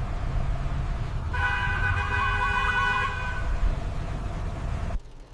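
A steady low rumble like street traffic, with a steady horn-like tone of several pitches lasting about two seconds in the middle. The rumble cuts off abruptly near the end.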